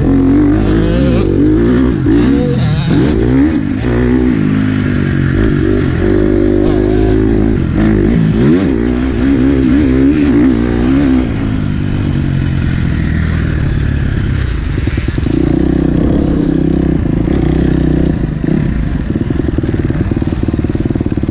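Motocross bike engine revving hard, its pitch rising and falling repeatedly through the first half, then running at a steadier, lower pitch for the rest.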